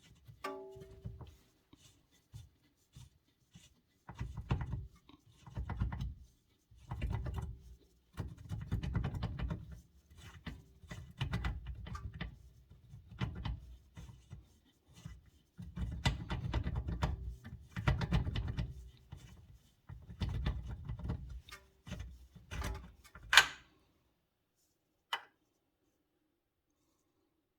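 Irregular knocks, clunks and rubbing from parts and tools being handled, with one sharp metallic-sounding click a little before the end.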